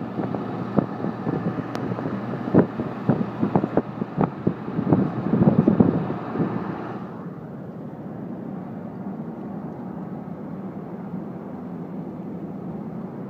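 Blizzard wind gusting through an open car window and buffeting the microphone in irregular hits, with the car's running noise underneath. About seven seconds in the hissing wind cuts off suddenly, leaving a steadier, duller car rumble.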